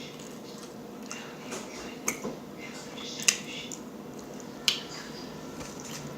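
Close-up mouth eating sounds: a person chewing food, with a few sharp, short clicks and crunches, the loudest about two, three and nearly five seconds in.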